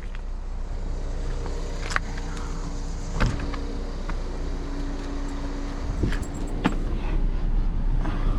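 Steady hum of a car with its engine running, broken by a few short sharp clicks and knocks, around two and three seconds in and twice more about six seconds in.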